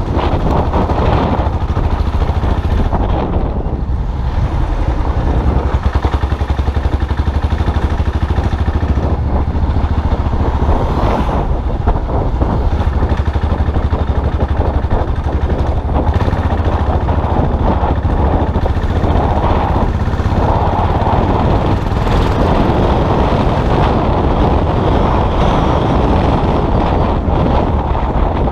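Motorcycle engine running steadily while riding, a continuous low throb with road and wind noise.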